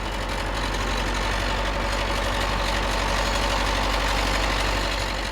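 Big tractor engine running loud with a fast low throb, growing louder over the first couple of seconds as it draws near, then steady.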